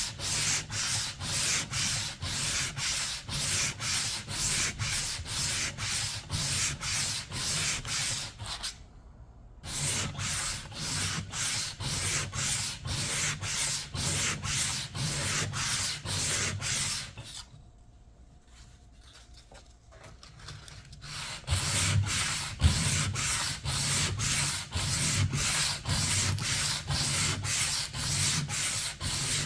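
Hand sanding: sandpaper rubbed back and forth over an old paint finish in quick, even strokes, about two to three a second. The strokes stop briefly about nine seconds in and again for a few seconds past the middle, then resume.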